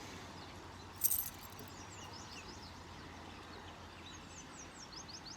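Wild birdsong: phrases of quick, high, downward-sweeping notes repeating several times, over the steady rush of a creek. A short loud burst of noise cuts in about a second in.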